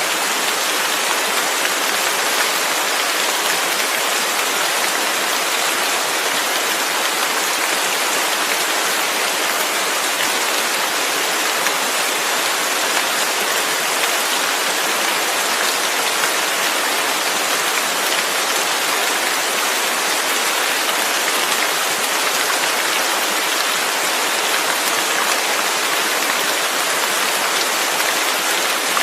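Steady rain falling, a constant even hiss of drops without breaks, thunder or other events.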